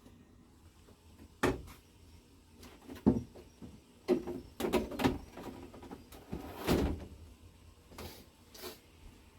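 Scattered knocks, clicks and scrapes of parts and tools being handled, the loudest a sharp knock about three seconds in, a cluster of clatter around the middle, and a longer scrape a little before seven seconds.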